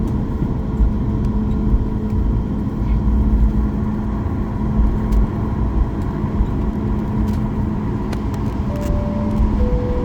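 Airliner cabin noise after landing: a steady rumble with a constant hum. Near the end, the two-tone cabin chime sounds, high then low, just before a PA announcement.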